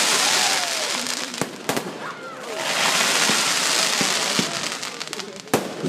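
Fireworks display: two long waves of dense crackling hiss from bursting shells, with a few sharp bangs about a second and a half in and another near the end. Crowd voices run faintly underneath.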